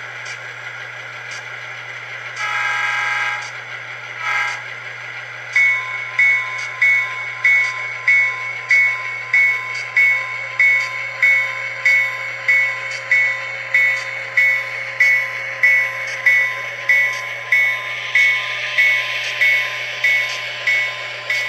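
Tsunami sound decoder in an HO-scale GP15t model locomotive playing a horn blast and a short toot, then the locomotive bell ringing steadily at about one and a half strikes a second, over a steady low hum of the idling prime mover, all through the model's small speaker.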